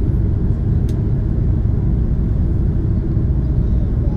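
Steady low rumble of an Airbus A330's cabin while the airliner taxis, engine and ground-roll noise, with a faint click about a second in.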